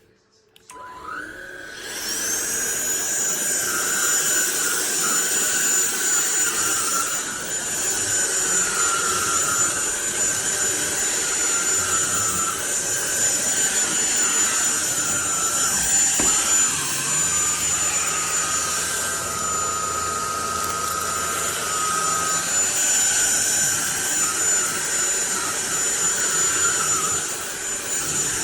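Cordless stick vacuum cleaner switched on, its motor spinning up over about a second to a steady high whine of suction and airflow. Partway through, the tone of the airflow shifts briefly as the vacuum works.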